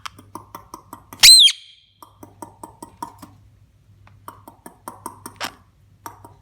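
Pet parrot giving one short, loud, shrill call that rises and then falls in pitch about a second in, amid several runs of quick clicking at about eight to ten clicks a second.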